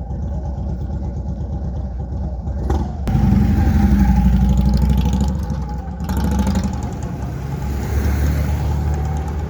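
A car engine running close by, with a steady pulsing idle; a car drives up louder from about three to six seconds in, and another swell follows near the end.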